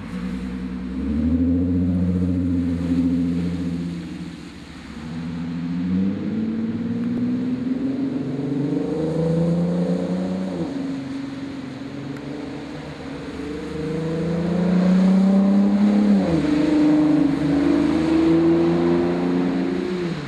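Porsche Cayenne 957's 3.6-litre V6 accelerating through a straight-through Supercup-style exhaust: muffler bypass pipes with small resonators and secondary catalytic-converter bypass pipes, giving a deep, aggressive note. The engine note climbs in pitch and drops back sharply three times, as on upshifts, and is loudest a little past the middle.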